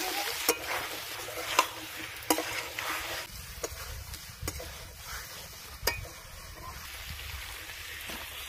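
A metal spatula stirring and scraping cubes of elephant foot yam frying in hot mustard oil and spice paste in an aluminium karai, with a sizzle and an occasional sharp clack of the spatula against the pan. The sizzle quietens after about three seconds.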